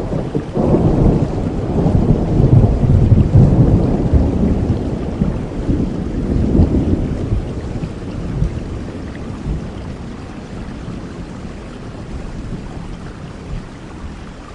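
A long roll of thunder rumbling over steady rain: it builds within the first second, stays loud for several seconds and fades out about halfway through, leaving the rain hiss.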